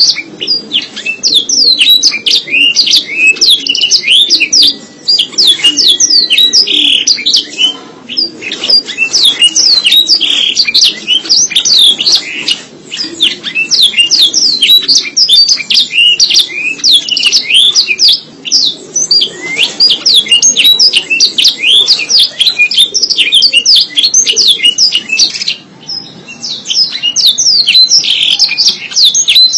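Canary singing a long, loud song of fast trills and warbles, breaking off briefly every few seconds before starting again.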